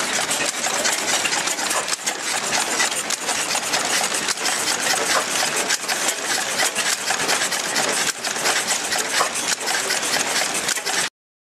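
Blackstone stationary oil engine running steadily, a dense rapid mechanical clatter. The sound cuts off abruptly near the end.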